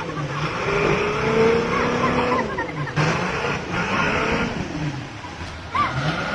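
Truck engine running and revving, its pitch rising and falling several times.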